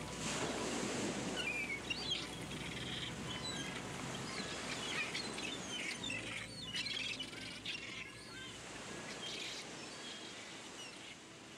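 Small birds chirping and twittering in quick short calls over a soft background hiss, slowly fading toward the end.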